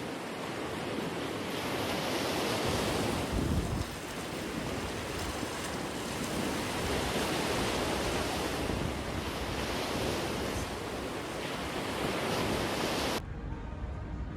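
Ocean waves washing, with wind buffeting the microphone, swelling and easing in surges. The sound drops abruptly near the end to a quieter background with a faint steady hum.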